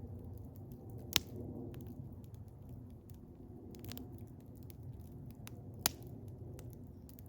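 Eastern hemlock wood fire crackling, with a steady low rumble of flame under many small ticks and two sharp pops, one about a second in and one near six seconds.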